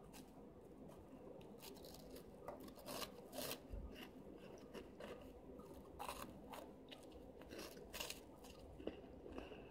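Faint crunching and chewing of Chester's Flamin' Hot Fries, a crunchy corn-and-potato snack stick, with short crisp crunches coming irregularly as the fries are bitten and chewed.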